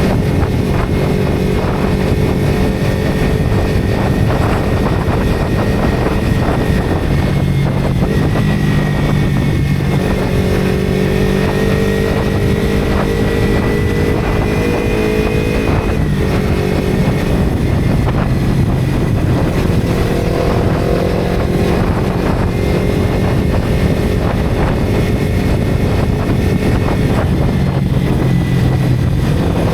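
Motorcycle engine running while riding, with wind noise over the microphone. The engine note shifts up and down several times as the speed changes.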